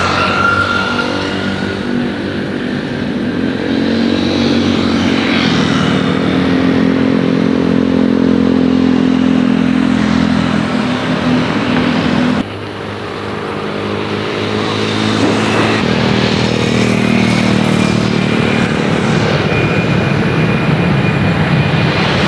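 Jet airliner engines running steadily, with a high turbine whine over a low drone. About twelve seconds in the sound cuts abruptly and drops, then builds back up.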